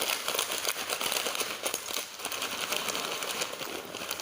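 Rain pattering steadily, a dense rush of fine irregular drops ticking.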